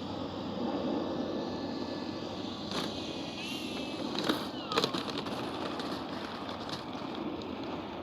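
Electric RC warbird model (FlightLine F4U Corsair) rolling out on its landing gear over pavement: a steady rolling rumble with a few sharp knocks from about three to five seconds in as it bumps along.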